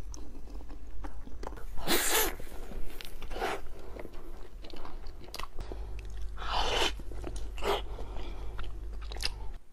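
Close-miked biting and chewing of soft, cream-filled mochi cakes. There are five separate loud bites, spread a second or more apart, with quieter wet chewing between them.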